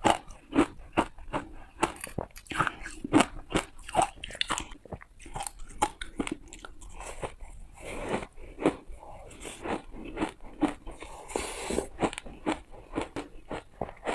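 Close-up ice being bitten and crunched by a person's teeth: a steady run of sharp, irregular crunches, one to three a second, with chewing between bites.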